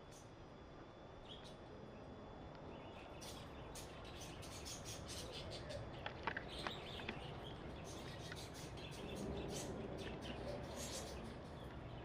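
Faint, scattered chirps of small birds over low steady background noise, with a few sharp clicks about six to seven seconds in.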